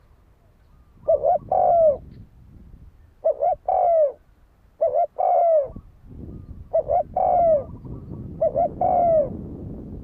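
Spotted dove cooing: five phrases spaced a little under two seconds apart, each two or three short notes followed by a longer coo that falls in pitch.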